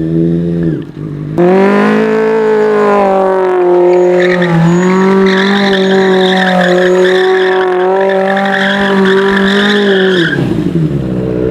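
Superbike engine held at high, nearly steady revs for about nine seconds, starting abruptly a second or so in, with tyre squeal joining about halfway: a stationary burnout.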